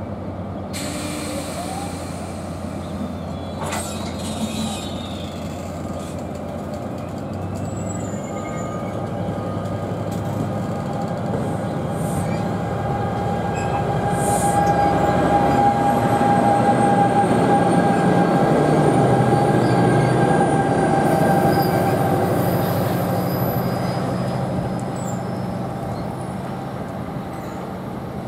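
NJ Transit commuter train rolling past on the near track with a steady rumble. It grows loudest about halfway through as the locomotive at the end of the train goes by, with a steady high whine, then eases off.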